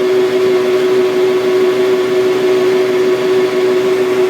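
2004 Isuzu AVGAS refueler truck running with its PTO-driven fuel pump engaged and building pressure: a loud, steady mechanical hum with one strong constant tone.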